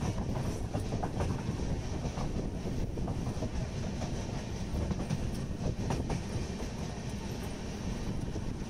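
Passenger train running on the rails, heard from on board: a steady low rumble with scattered sharp clicks of the wheels.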